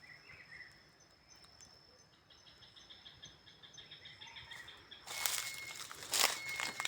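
Insects singing: a steady high-pitched trill with a run of rapid, evenly spaced chirps over it. About five seconds in, loud crackling rustle takes over.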